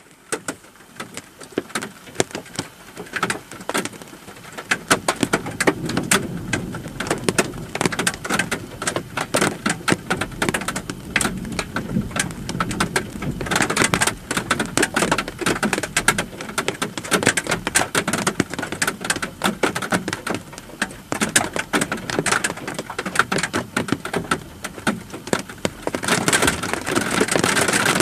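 Steady rain falling: a dense patter of many small drops that fades in and grows heavier after a few seconds, swelling louder again near the end.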